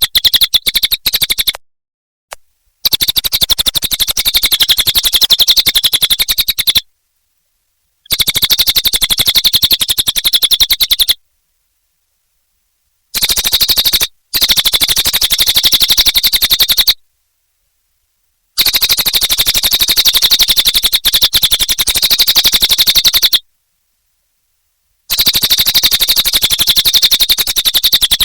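Cililin bird singing in bursts of fast, rapid-fire chattering notes. Each burst lasts a few seconds, with short breaks between them, about six bursts in all.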